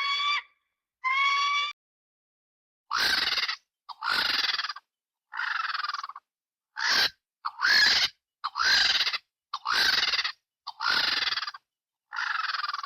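A cartoon bird character's calls, edited one after another with dead silence between: two clear, pitched calls, then about nine rougher, raspy calls of under a second each, many falling slightly in pitch.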